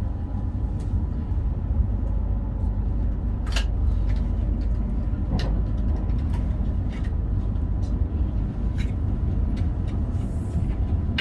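Meitetsu Panorama Super electric train running at speed, heard from inside: a steady low rumble with scattered sharp clicks and knocks from wheels and rail.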